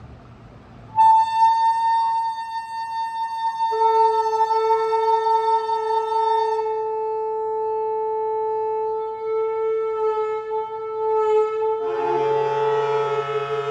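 Saxophones playing long held notes in free improvisation. A single high note starts about a second in, a lower note joins about four seconds in, and more voices come in near the end, thickening the chord.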